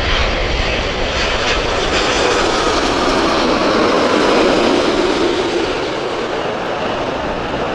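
Jet airliner on final approach passing overhead: a loud, steady engine rush that is loudest about halfway through and then eases off, its pitch dropping slightly as it passes.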